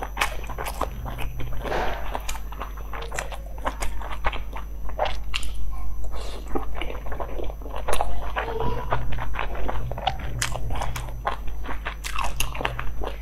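Close-miked chewing and biting of soft steamed dumplings, with many short, irregular mouth clicks.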